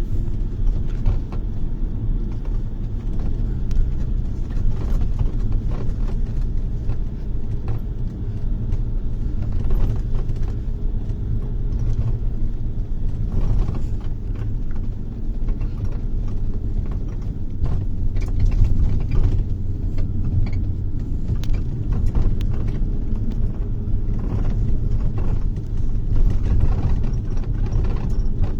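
Inside a moving bus: steady low engine and road rumble, with scattered rattles and knocks from the cabin.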